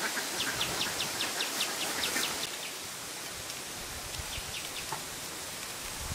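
Outdoor background with a small bird chirping: a quick run of short, high chirps in the first two seconds, then a few scattered chirps over a steady hiss.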